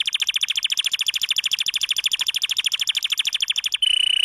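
Domestic canary singing: a very fast, even trill of high repeated notes, changing near the end into one steady held whistle.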